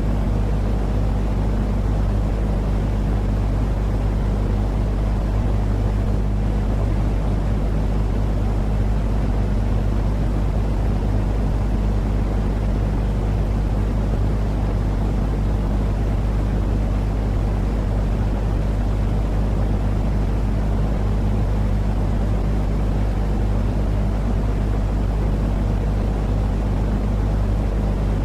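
Continuous white noise for a baby's sleep: an even, unchanging rumbling hiss, heaviest in the bass with a steady low hum beneath it.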